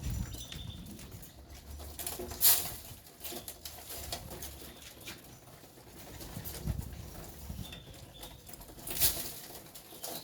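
Caged birds moving about with faint short chirps and wing flutters, broken by two sharp knocks, one a couple of seconds in and one near the end.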